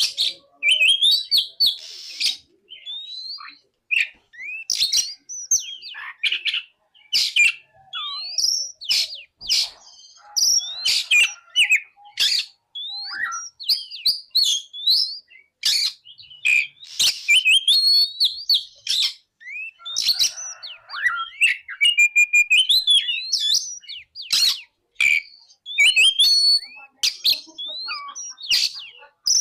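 Oriental magpie-robin (kacer) singing a fast, varied song of sharp chirps, rising and falling whistles and trills, in quick phrases broken by short pauses.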